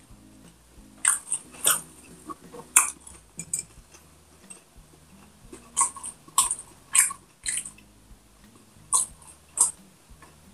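Close-miked mouth sounds of eating: wet chewing and lip smacks in irregular sharp clicks, then swallowing as water is drunk from a glass mug in the second half.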